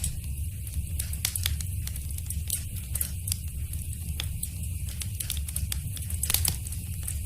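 Fire crackling in a fireplace: irregular sharp pops and snaps over a steady low rumble, with a cluster of louder pops about six seconds in.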